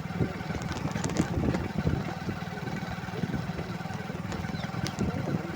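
Motor vehicle engine running steadily under a low rumble, with scattered short knocks.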